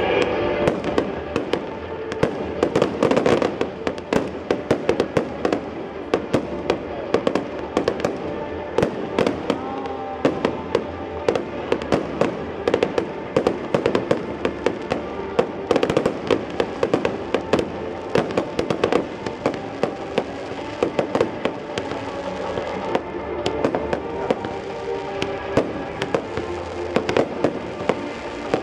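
Fireworks display: dense, rapid bangs and crackles going off continuously, with music playing underneath.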